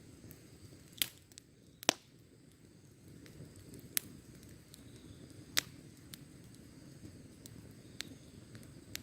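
Wood fire crackling: about half a dozen sharp, irregular pops from the burning wood, the loudest about two seconds in, over a low steady rustle of the flames.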